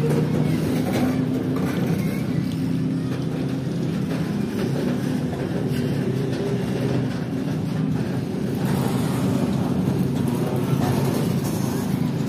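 Freight train of container flatcars rolling slowly past, with a steady rumble of wheels on the rails.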